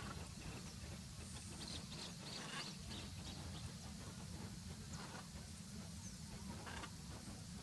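Blue-and-yellow macaws giving short, harsh squawks: a cluster in the first few seconds, then single calls later on, over a steady low rumble.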